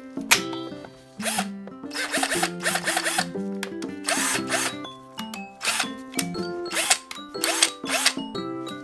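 A cordless power tool's motor triggered in short bursts of about a second or less, spinning up and dropping back each time, being checked to see whether it runs, over background music.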